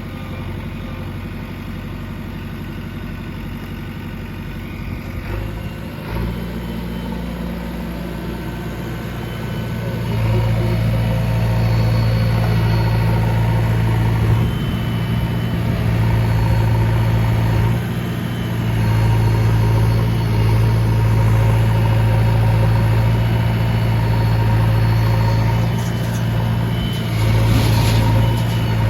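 Heavy diesel engine running, picking up about six seconds in and again about ten seconds in, then holding a loud, steady working note with a couple of brief dips.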